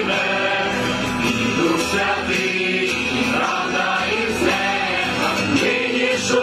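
Choir singing a Ukrainian carol, several voices holding sustained notes together.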